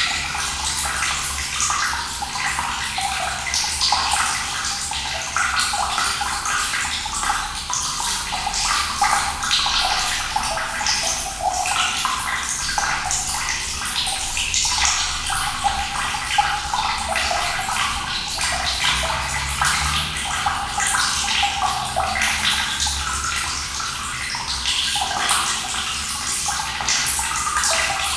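Running water pouring and splashing steadily, with a bright, busy spatter.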